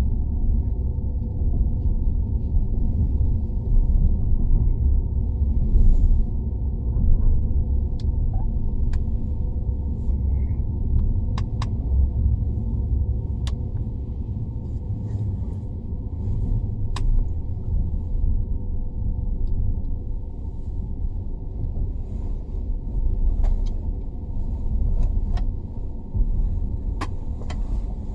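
Steady low rumble of a CR400AF-AE Fuxing high-speed sleeper train running, muffled as heard from inside the carriage, with a faint steady hum and scattered sharp clicks.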